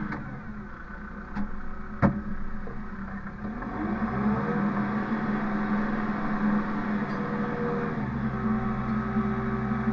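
Engine of the bale-handling machine running steadily, its pitch rising about three and a half seconds in and shifting again near the end. Sharp knocks come about one and a half and two seconds in, the second one the loudest.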